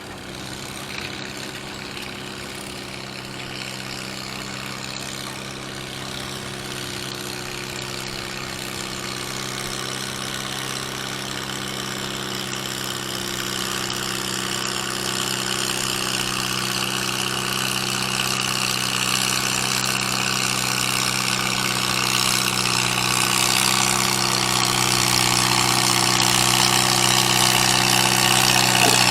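Gas tractor engine running at a steady, unchanging speed, growing gradually louder throughout.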